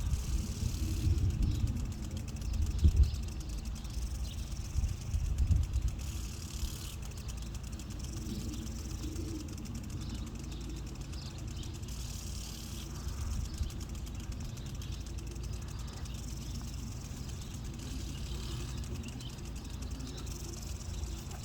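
Wind buffeting the microphone in uneven gusts over a steady low rumble, the gusts strongest in the first six seconds.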